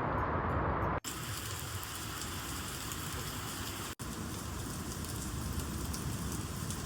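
Heavy rain falling in a steady hiss. For about the first second the rushing is lower and duller; after a sudden break it is brighter and fuller, with another brief break about four seconds in.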